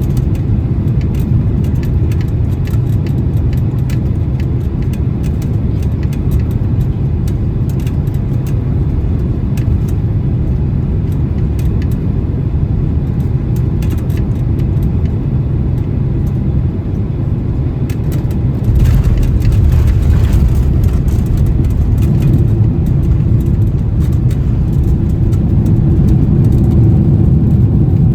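Cabin noise inside a Boeing 767-300 on a gusty final approach and landing: a steady, loud rumble of engines and airflow. After touchdown the rumble suddenly jumps louder and stays up as the jet rolls down the runway, as with reverse thrust being applied.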